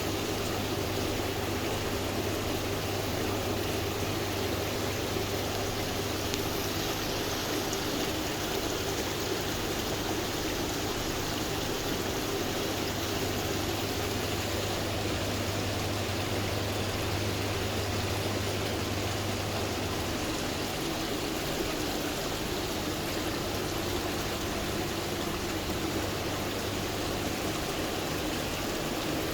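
Small stone tabletop water fountain: water trickling and splashing steadily over stone. A low, steady hum runs underneath.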